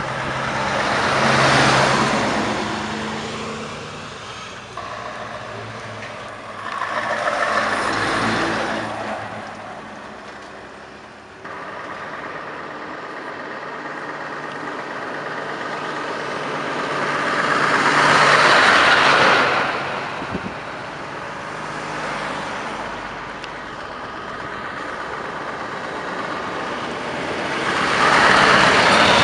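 Heavy trucks of a convoy, Scania V8s among them, driving past one after another with their diesel engines running. The sound swells as each truck goes by, four times.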